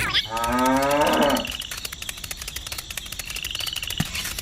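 A cow mooing once, for about a second near the start, over a background of fast, even ticking and faint high chirps.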